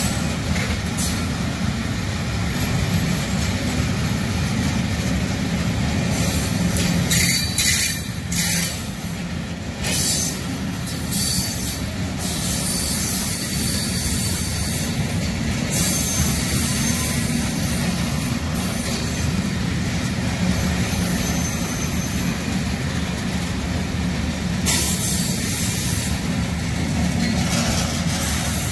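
Freight train of high-sided open wagons rolling past on the rails: a steady rumble of wheels, with a high-pitched wheel squeal that comes and goes several times.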